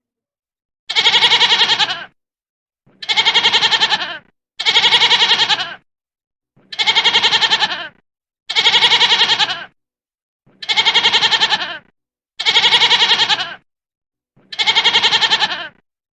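A goat bleating: the same quavering bleat repeated eight times, about one every two seconds.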